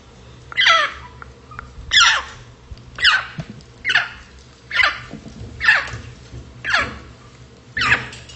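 African grey parrot calling over and over, about one call a second, each a loud cry that falls sharply in pitch, eight in all.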